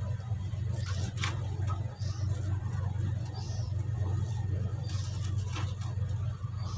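A steady low hum, with faint clicks and rustles of braided PE line being handled and smoothed by hand. Short high squeaks come every second or two.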